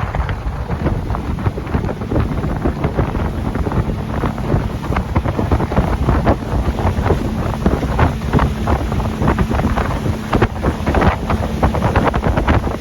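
Heavy wind buffeting the microphone of a moving motorboat, with a rumble and a faint steady engine drone underneath.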